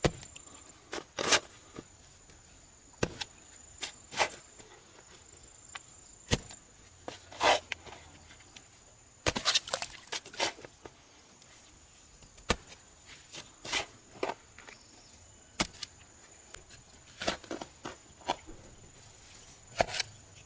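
Irregular sharp knocks and thuds, some single and some in quick clusters, over a steady high-pitched whine.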